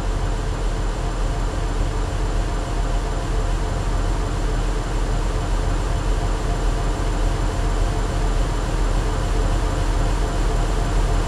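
Electronic ambient intro: a steady, dense noise drone with a heavy low rumble and faint held tones underneath, with no beat.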